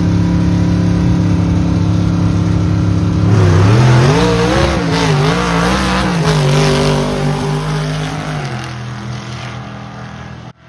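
Drag strip cars idling at the starting line, then a car launches. Its engine revs up with a wavering, climbing pitch, then holds steady and fades as it runs away down the strip.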